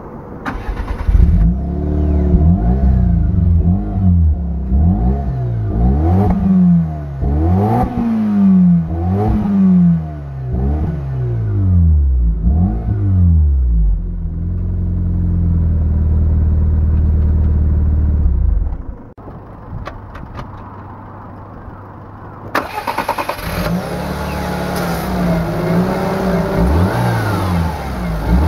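Daihatsu Copen's 660 cc turbocharged inline-four (JB-DET) engine and exhaust, revved again and again in quick rises and falls. It is then held at a steady speed for about five seconds and drops back. After a few seconds of lower running it is revved again.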